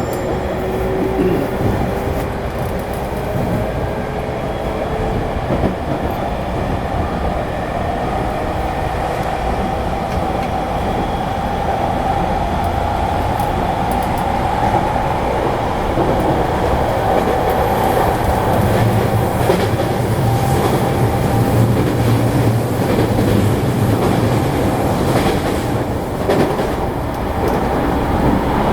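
Running noise inside a JR East E217-series electric commuter train's motor car: a steady rumble of wheels on rail with a traction-motor whine that rises in pitch over the first dozen seconds as the train picks up speed. A few knocks from the track come near the end.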